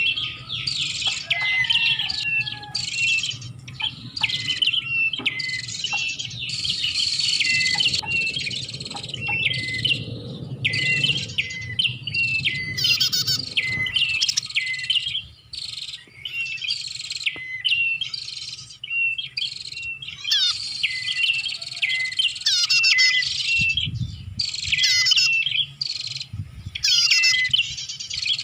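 Prenjak (prinia) song used as a trapping lure: fast, high chirping phrases repeated one after another with short gaps. A faint low rumble lies under the first half.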